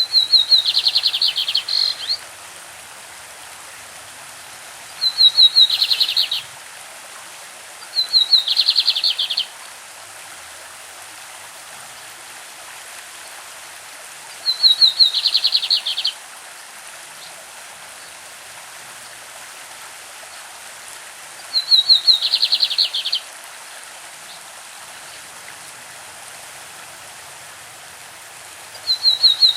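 Lined seedeater (bigodinho) singing the 'clássico' song: six phrases spaced a few seconds apart, the last starting right at the end. Each phrase opens with a few quick high notes and runs into a fast rattling trill lasting about a second and a half. A stream rushes steadily underneath.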